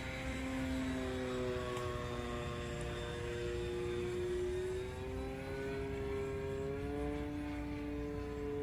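Electric brushless motor and propeller of an RC Piper Cherokee model plane in flight: a steady whine that drifts gently in pitch, rising a little in the last couple of seconds.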